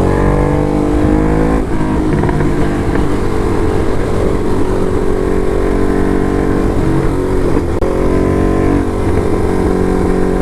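Ducati Hypermotard SP's L-twin engine through an SC Project exhaust, pulling hard under acceleration: the revs climb, drop at a gear change about a second and a half in, and climb again later.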